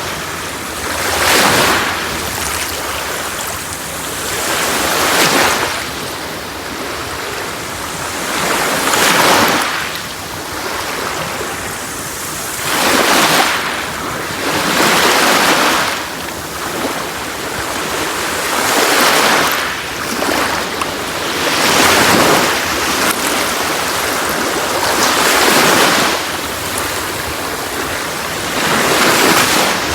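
Sea waves breaking and washing on a beach, a new wave rising to a peak every three to four seconds over a steady wash of surf.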